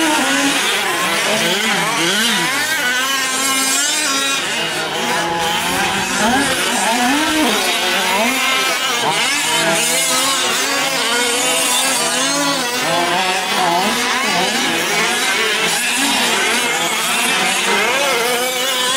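Several 1/5-scale gas RC trucks' small two-stroke engines racing, their overlapping pitches rising and falling as they rev and back off through the course.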